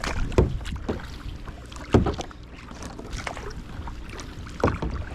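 Kayak paddle strokes splashing in the water, the three loudest about half a second, two seconds and four and a half seconds in, over a low rumble of wind on the microphone.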